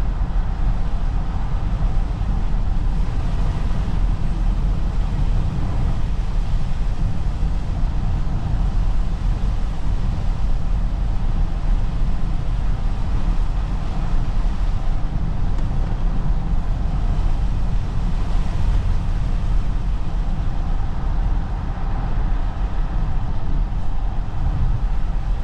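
Steady low rumble of road and tyre noise heard inside the cabin of a Toyota RAV4 hybrid driving on snowy roads.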